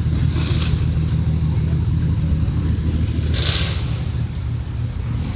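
Car engine idling steadily with a deep, even low rumble. Two short hisses sound, about half a second and three and a half seconds in.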